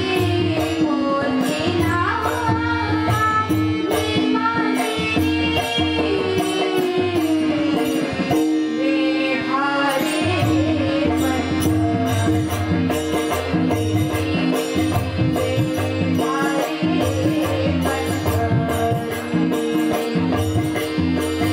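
Group singing a devotional bhajan to a steady accompaniment: a held drone tone under the melody, drum strokes and an even, rhythmic clicking beat. The low drum drops out briefly near the middle, then returns.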